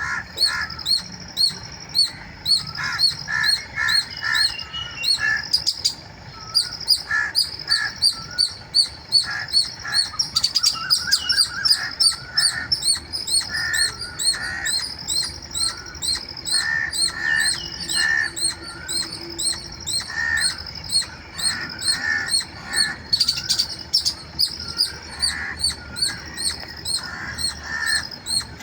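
A squirrel calling: a high, sharp chirp repeated steadily about two to three times a second without a break, with scattered groups of lower chirps in between.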